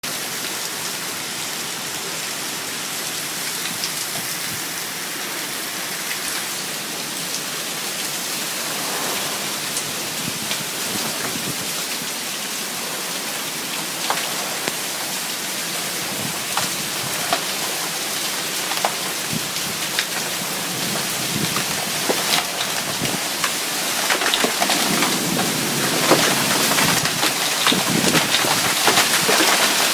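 Heavy rain pouring down in a severe thunderstorm, with close drops tapping sharply. It gets heavier and louder over the last several seconds.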